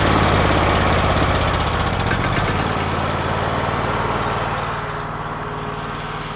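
An engine just started, running at a steady speed with a fast, even firing beat. It eases slightly in level near the end.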